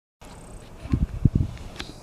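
Wind buffeting the microphone in irregular low gusts and thumps, with a few faint clicks.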